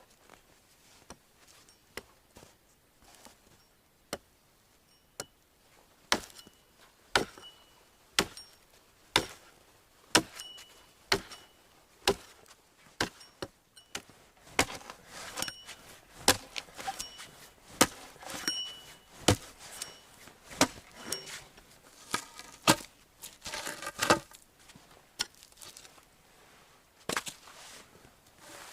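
A blade chopping on wood in a run of sharp strikes about once a second, some with a short metallic ring; the strikes start about six seconds in after a few faint clicks, come thickest in the middle and thin out near the end.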